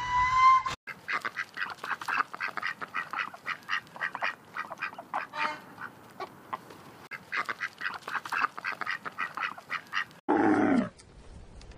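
Ducks quacking, many short quacks in quick succession. Near the end a different, lower and louder animal call cuts in.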